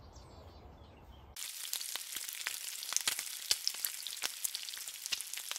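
Food frying: a dense sizzle and crackle that starts suddenly about a second and a half in, after low room noise.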